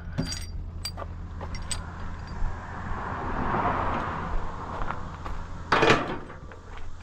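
Engine idling steadily under scattered metallic clinks, with a rising and falling rush of noise in the middle and a loud clank about six seconds in.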